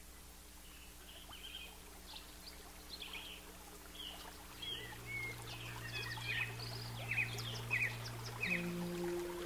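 Birds chirping in a flurry of short, high calls that grow busier, over a faint steady hiss. Low sustained music notes come in about halfway and change pitch near the end.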